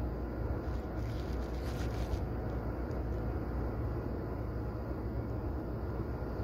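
JR Mito Line electric commuter train running, heard from inside the passenger car: a steady low rumble of wheels and running gear. Between about one and two seconds in, a brief burst of higher hiss and rattle rises over it.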